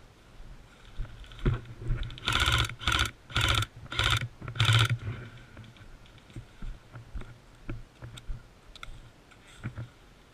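Airsoft gun firing five short bursts of rapid full-auto shots in quick succession, followed by a few faint scattered clicks.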